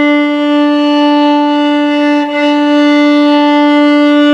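Violin playing one steady sustained note with a long, even bow stroke and a single bow change about two seconds in, the bow tilted onto the side of its hair to lighten it near the frog for a cleaner tone.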